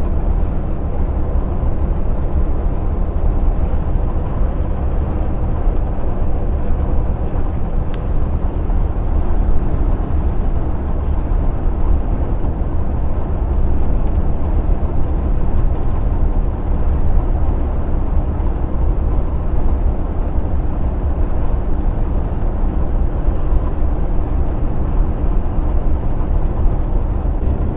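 Steady low drone of a lorry's engine and tyres heard from inside the cab while cruising on the motorway.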